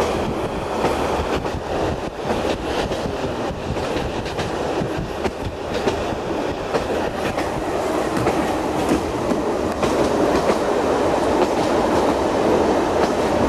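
Passenger train running on the rails: a steady rumble with the clicking of wheels over rail joints.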